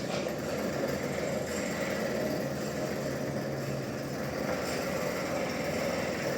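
Sawmill machinery running steadily with an even, engine-like hum that does not rise or fall.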